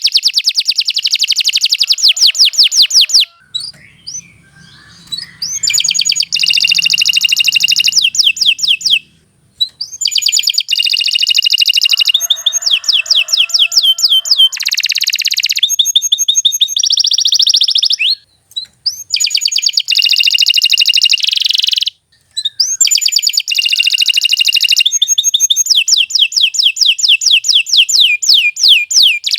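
Domestic canary in full song, singing long, loud phrases of rapid repeated notes and trills, broken by a few short pauses.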